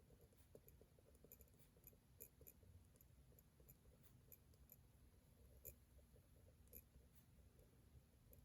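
Very faint writing at a desk: a pen scratching and tapping on paper in small, irregular ticks.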